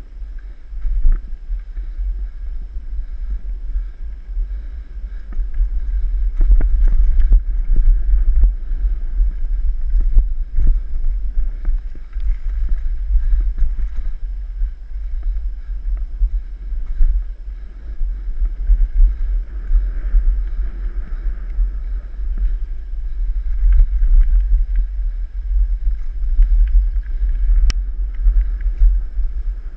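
Wind buffeting the microphone of a camera riding on a moving mountain bike, a loud fluttering rumble, with scattered knocks and rattles from the bike going over the trail.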